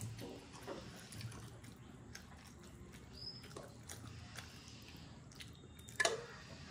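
A child chewing and eating momos close to the microphone: soft wet mouth sounds and small scattered clicks, with one sharper click about six seconds in.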